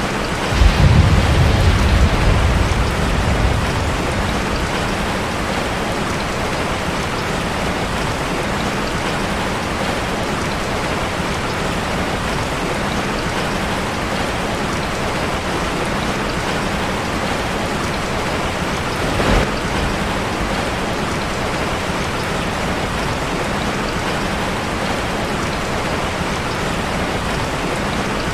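Steady rain drumming on a metal roof. About half a second in, a low thunder rumble rises and fades away over about three seconds, and a single short crack comes about nineteen seconds in.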